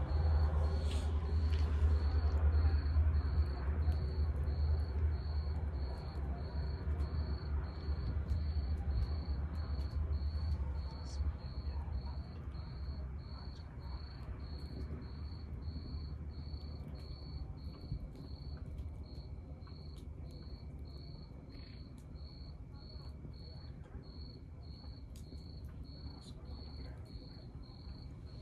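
Log fire crackling with scattered sharp pops, under a low rumble that fades over the first ten seconds or so. A cricket chirps steadily through it, a little more than once a second.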